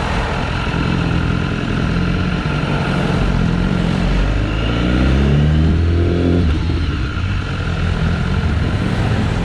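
BMW S1000RR inline-four engine under way with wind rushing past. The revs climb from about four seconds in, then drop off abruptly about six and a half seconds in as the throttle closes.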